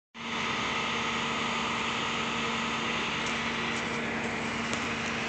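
A vehicle engine idling steadily, a constant hum with an even hiss over it.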